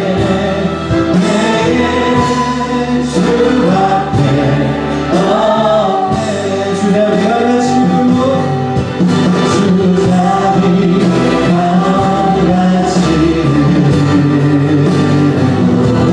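Voices singing a Christian worship song together, with instrumental accompaniment, in long sustained phrases.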